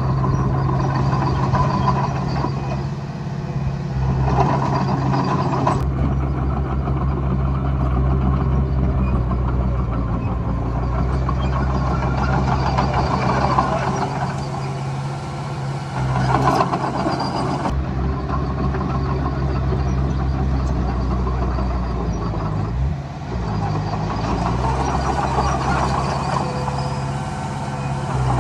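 Diesel engine of a Komatsu D20A crawler bulldozer running steadily under load, with a rough mid-pitched clatter that swells and fades every few seconds as it works.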